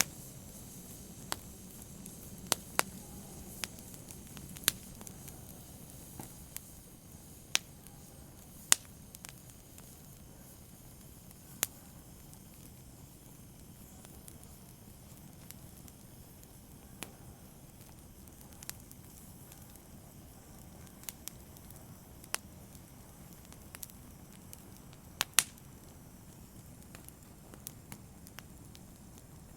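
Wood fire burning with a soft steady hiss and irregular sharp crackles and pops, a few of them loud.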